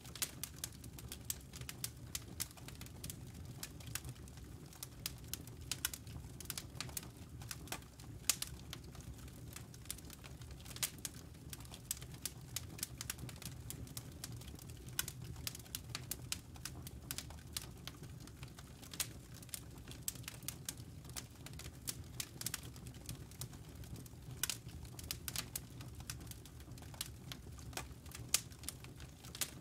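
Wood fire crackling in a fireplace: burning logs giving off irregular sharp pops and snaps, several a second, over a steady low rumble.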